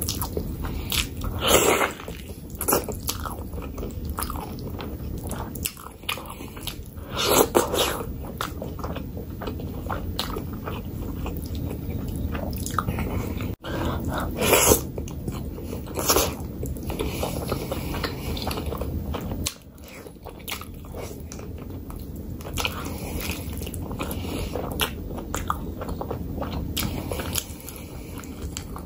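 Close-miked wet chewing and mouth smacks of a person eating spicy mutton curry and rice by hand, with frequent sharp clicks and several louder bites and smacks along the way.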